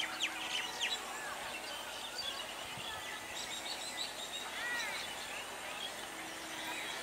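Birds chirping in short, repeated calls over steady outdoor background noise.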